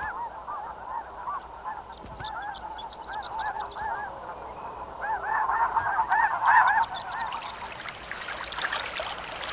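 A flock of snow geese calling, many overlapping honks, busiest around the middle. Near the end a rushing hiss like fast-flowing water fades in under the calls.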